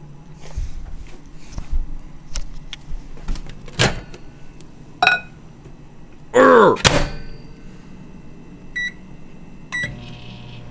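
Kitchen handling noises: scattered knocks and clicks, then a loud short pitched cry about two thirds of the way through. Near the end come short electronic beeps, and a steady low hum starts.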